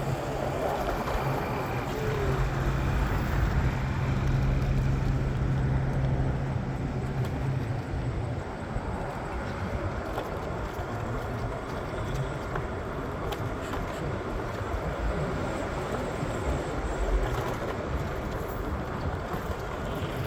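Steady vehicle rumble, with a low hum that grows louder for several seconds and then fades about a third of the way through.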